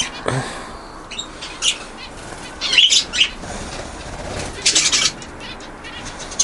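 Aviary budgerigars chirping and chattering in short calls, with wings flapping as birds fly about the flight; the calls come in clusters about three and five seconds in.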